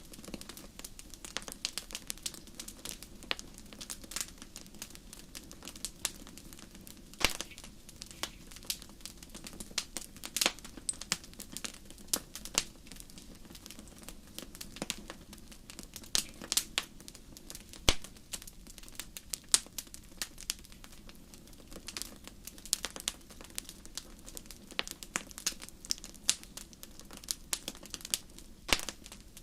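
Wood fire crackling in a fireplace: irregular sharp pops and snaps, some much louder than others, over a steady low rumble of the burning fire.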